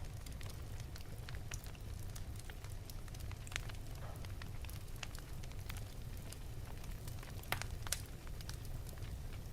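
Wood fire burning in an open fireplace: irregular sharp crackles and pops over a steady low rumble of the flames, with a few louder pops about three and a half seconds in and twice near the end.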